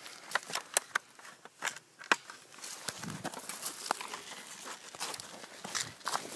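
Footsteps and rustling through dry leaves and brush, with scattered sharp clicks and cracks.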